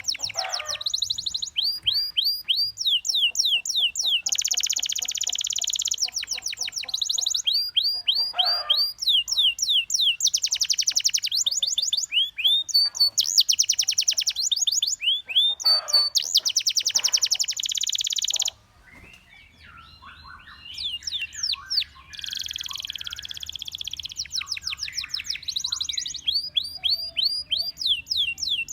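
Canary singing in fast trills: rapid runs of repeated falling notes and dense rolls, broken by a short pause about two-thirds of the way through before the song resumes.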